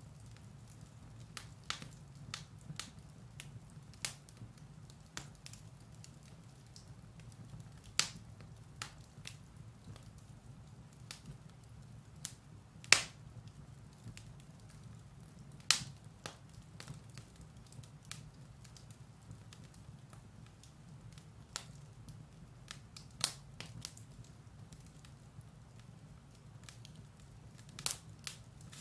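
Firewood burning in a fireplace, crackling with scattered sharp pops over a low steady rumble; the loudest pops come about 8, 13 and 16 seconds in, then near 23 and 28 seconds.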